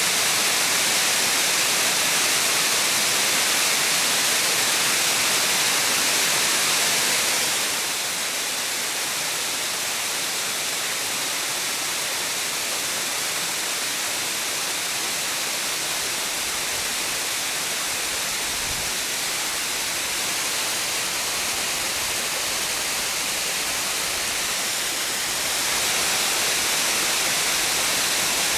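A waterfall rushing steadily, a dense even roar of falling water. It turns a little quieter and less bright about eight seconds in, and louder again near the end.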